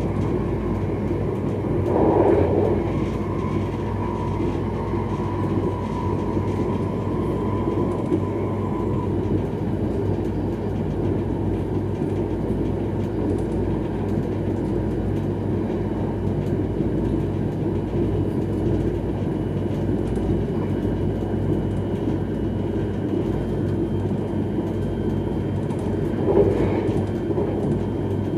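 Electric passenger train running at speed, a steady rumble of wheels on rails heard from inside the cab. There are two brief louder bursts, one about two seconds in and one near the end, and a faint steady whine over the first several seconds.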